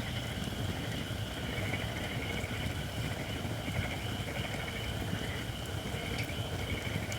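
Japanese white oak firewood burning in a campfire, with scattered sharp crackles and a steady hiss from wood not yet fully dry. Frogs trill in short bursts over a low steady rumble.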